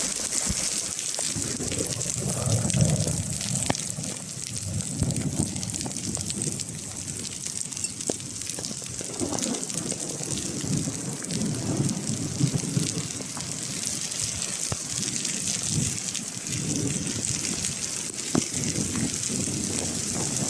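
Hail and rain coming down, with many sharp ticks of hailstones striking over a steady hiss of rain. A low rumble swells and fades now and then.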